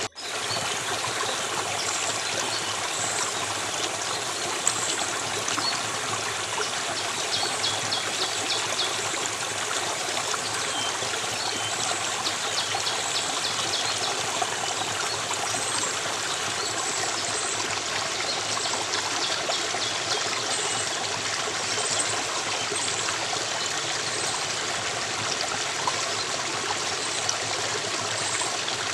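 Flowing stream of water babbling steadily, with faint high bird chirps now and then.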